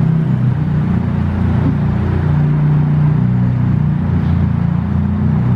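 Ford Fiesta ST's engine running at low revs, its pitch wavering slightly as the car is eased along at slow speed.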